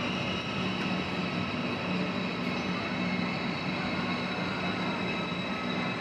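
A passenger train at a station platform: a steady mechanical hum with a low droning tone that comes and goes, over the even noise of the station.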